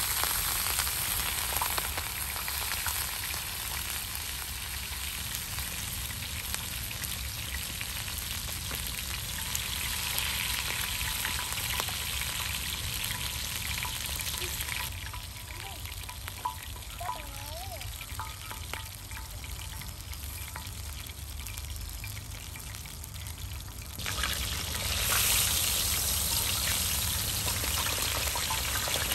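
Chicken chapli kababs sizzling as they shallow-fry in oil on a large tawa. The sizzle is steady, softens partway through and grows louder again near the end.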